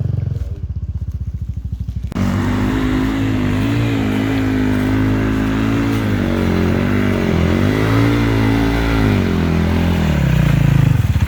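Two-stroke enduro motorcycle engine riding over the track. Its even firing pulses get suddenly louder about two seconds in, then the revs rise and fall repeatedly and drop away near the end.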